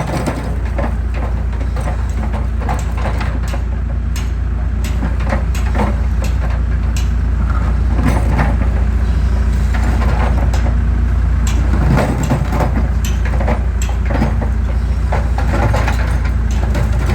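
Excavator's diesel engine running steadily under an irregular scatter of sharp cracks and knocks as concrete is crushed.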